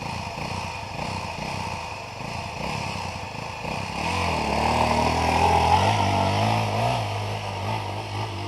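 Off-road trail motorcycle engine working with uneven revving, the pitch rising and falling. It grows louder about halfway through.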